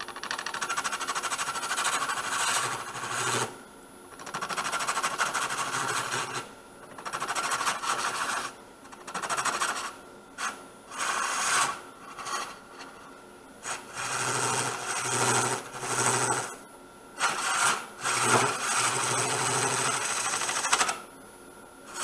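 Wood lathe running while a homemade hollowing tool scrapes out the inside of a wet sweet gum blank, in a string of cuts a second or a few long with short pauses between. The tool is grabbing in the soft, wet wood.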